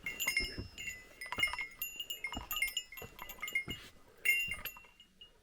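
A small metal bell, such as a hiker's bear bell, jingling in clusters of short high rings about once a second, in time with dull footfalls. It fades out near the end.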